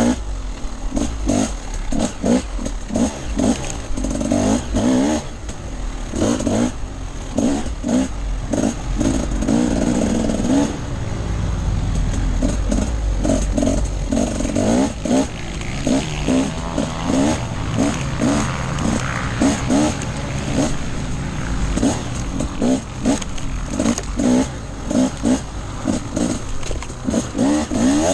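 Off-road dirt bike engine revving in quick bursts on and off the throttle, with a steadier pull in the middle where the pitch climbs and drops.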